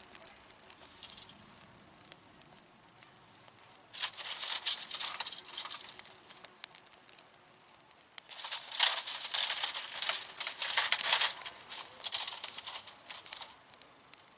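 Dry brushwood kindling in a fire basket crackling and rustling as the fire is being lit, in a short burst about four seconds in and a longer, louder stretch from about eight to thirteen seconds.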